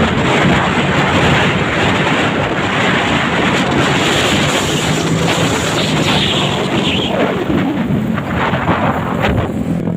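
Truck passing close by: a loud, dense engine rumble with a steady low drone, mixed with wind buffeting the microphone. A falling pitch sweeps down about seven seconds in.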